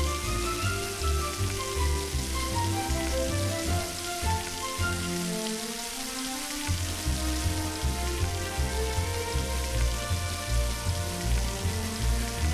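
Kimchi pancake (kimchijeon) batter sizzling and crackling in a hot frying pan as it is poured and ladled in, a rain-like patter. Background music with a steady bass beat plays over it and drops out briefly near the middle.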